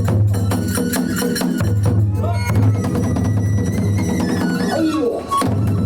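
Kagura hayashi music: rapid, steady drumming with fast metallic clashes of hand cymbals and a high wind melody over it. The low drum drops out briefly near the end.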